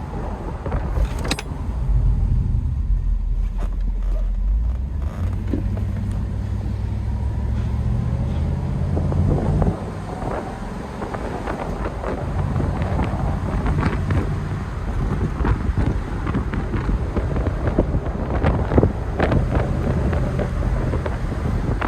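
The Mercedes-Benz 560SL's V8 engine pulling as the car is driven, its note climbing in steps and dropping back suddenly about ten seconds in, over road and wind noise.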